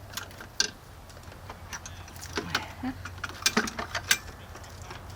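Hand tools working on a truck engine: scattered sharp metallic clicks and clinks at uneven spacing, over a low steady hum.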